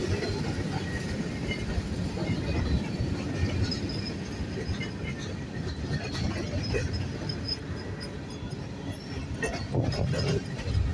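Freight train of covered hopper cars rolling past at close range: a steady rumble of steel wheels on the rails, with occasional short high wheel squeals and a few sharp clicks near the end.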